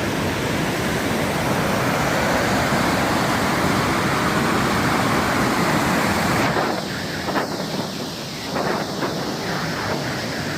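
Steady rush of water from a waterfall. About six and a half seconds in it drops abruptly to a softer, uneven rush of water.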